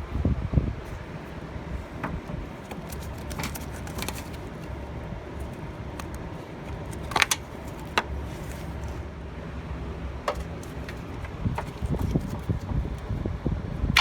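A few scattered metallic clinks and taps of hand tools against metal parts, over a steady low rumble.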